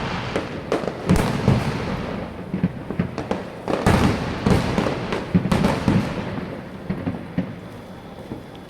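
Fireworks going off in rapid succession: many overlapping bangs and pops, each trailing an echo, thinning out over the last couple of seconds.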